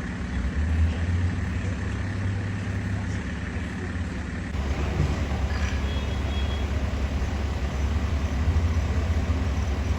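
Steady low rumble of a large vehicle's engine running, with a constant droning hum, over street noise.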